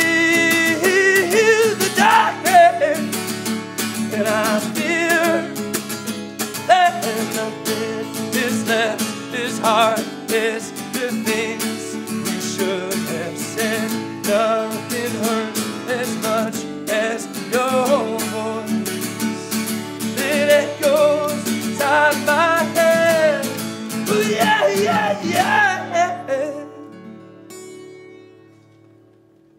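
Song ending with strummed acoustic guitar and singing. In the last few seconds the final chord rings out and fades away.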